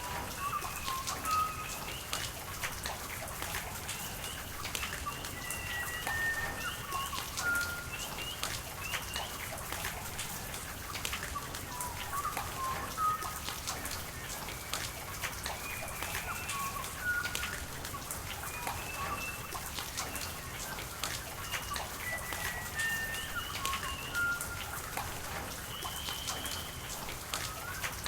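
Steady rain with scattered drops ticking, and birds calling throughout in short, high chirps.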